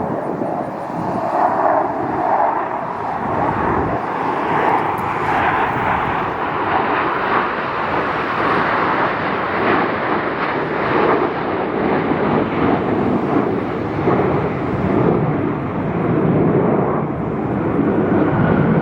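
Aircraft flying over, a loud, steady rushing engine noise.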